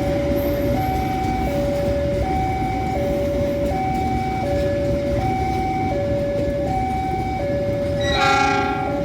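Electronic two-tone warning alarm of a railway level crossing, alternating high and low notes about every three quarters of a second, over the low rumble of a train on the tracks. About 8 seconds in, the train sounds a short horn blast.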